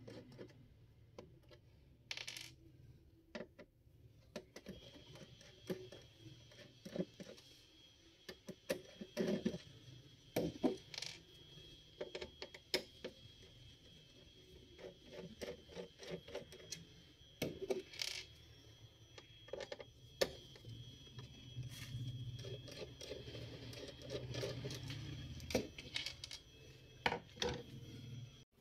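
Screws being undone from the back and stand of a Dell 22-inch LED monitor: scattered small metallic clicks and clinks of screwdriver and screws, with knocks from handling the plastic casing. A faint steady high whine joins about five seconds in.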